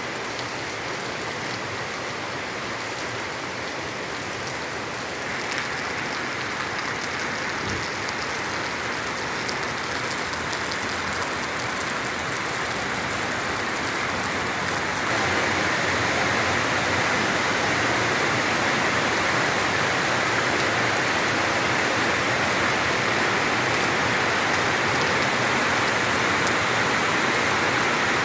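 Heavy rain falling steadily. It grows louder about five seconds in and again about halfway through.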